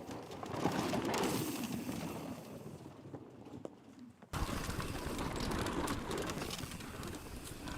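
Mountain bike tyres on a loose, dusty dirt trail as a rider passes, a rushing noise that swells and fades. About four seconds in it cuts off suddenly to another stretch of rushing trail noise.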